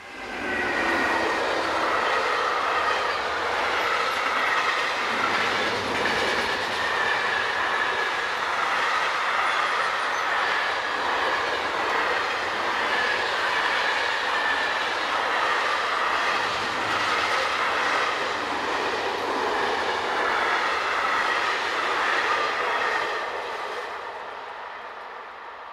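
Freight train of brown sliding-wall covered wagons rolling past close by at speed: a loud, steady rolling din with wheels clattering over the rail joints and a wavering high squeal from the wheels. It comes in suddenly about half a second in and fades away near the end as the last wagons pull away.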